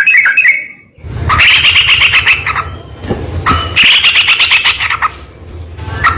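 Yellow-vented bulbul (trucukan) singing loud, fast, rough chattering phrases, each about a second and a half long with short gaps between them. A phrase ends just under a second in, two full phrases follow, and another begins near the end. A low rumble runs under each phrase.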